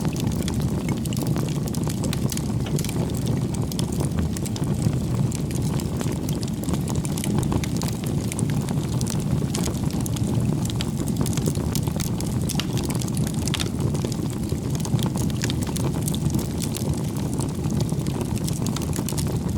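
Bonfire burning: a steady low rumble of flames with frequent sharp crackles and pops of the burning wood.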